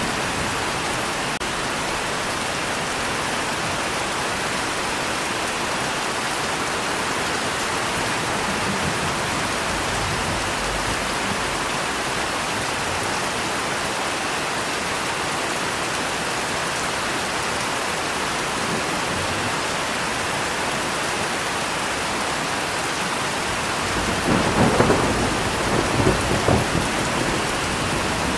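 Steady heavy rain, with a thunderclap rumbling and crackling near the end.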